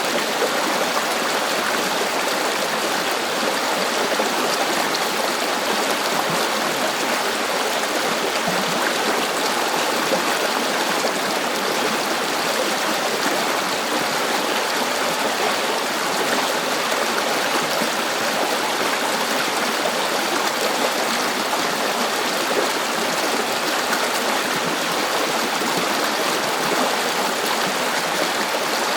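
River water flowing over stones, a steady rushing and babbling with no let-up.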